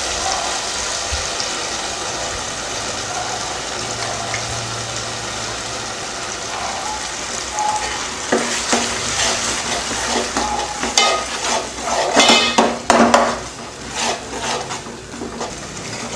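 Oil sizzling in a pot of frying shallots, garlic and tomato. About eight seconds in, a perforated steel ladle starts scraping and clinking against steel as ground masala paste is scraped in and stirred through.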